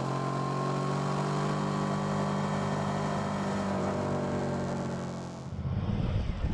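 Suzuki V-Strom 650's 645 cc V-twin engine running on the move, its pitch easing slowly down as the bike slows. About five and a half seconds in it changes to a rougher, lower rumble.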